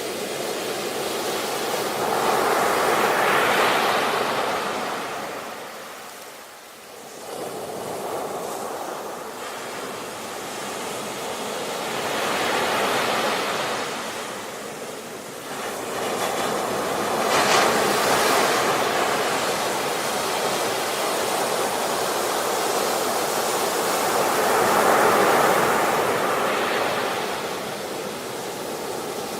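Ocean surf: waves breaking and rushing in as a rising and falling hiss, with four louder surges and a brief lull about six seconds in.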